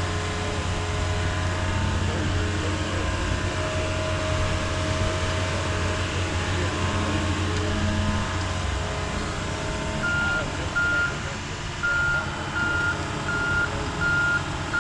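Diesel engine of an excavator running steadily, then a machine's backup alarm beeping repeatedly, a short high beep a bit more than once a second, from about two-thirds of the way through.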